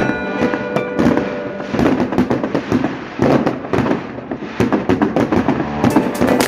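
Fireworks going off in quick succession, a dense run of bangs and crackles that thins briefly around the middle, with music underneath.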